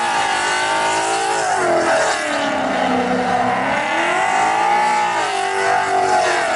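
A car engine revving hard, its pitch rising and falling in slow swells about every two seconds, over a steady hiss.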